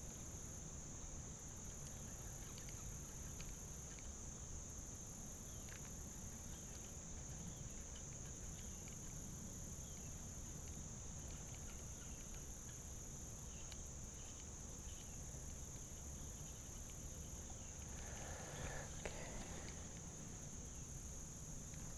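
Insects chirring: a steady high drone, with a still higher pulsing chorus that comes and goes in stretches of a few seconds, over a low steady rumble.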